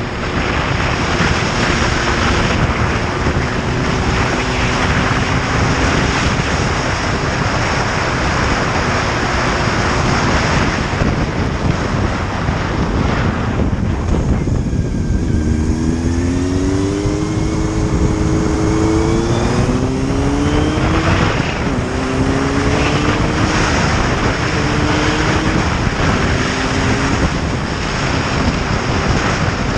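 Motorcycle on the move with heavy wind rush over the microphone. The engine holds a steady note at first; from about halfway it climbs in pitch several times in a row, dropping back between climbs as the bike accelerates up through the gears.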